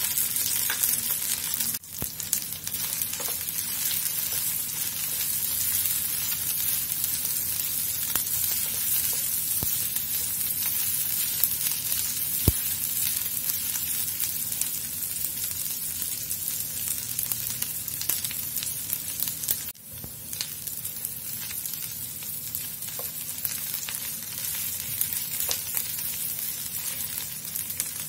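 Diced onion, carrot, sweet corn and green beans sizzling in oil in a nonstick frying pan while a spatula stirs them, with a few light taps; the sizzle breaks off briefly twice.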